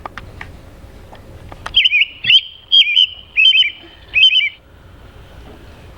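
American robin song: about five short, clear phrases, each sliding quickly up and down in pitch. They begin about two seconds in and stop a little past the middle.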